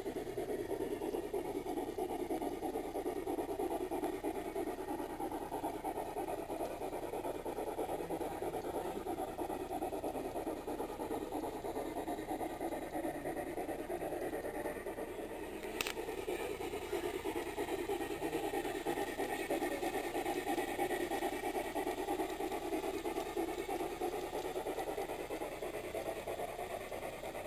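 Model train running steadily on its track with a continuous rumble, and a single sharp click about halfway through.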